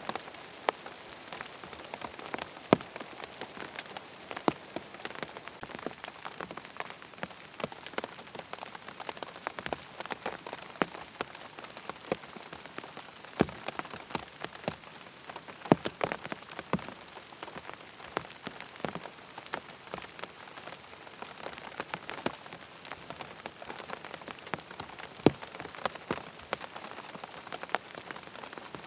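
Steady rain falling, an even hiss with frequent sharp drop taps scattered irregularly through it.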